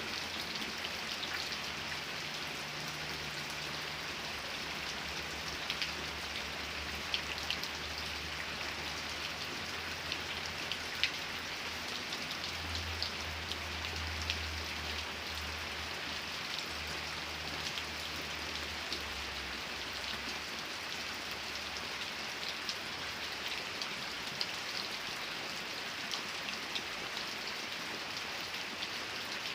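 Steady rain falling, an even hiss with individual drops ticking here and there. A low rumble sits underneath for about the first two-thirds, then fades.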